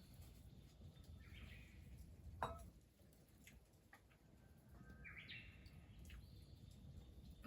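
Faint bird calls: a short chirping call about a second in and a longer call of several stacked notes about five seconds in. A brief, sharp falling sound about two and a half seconds in is the loudest moment.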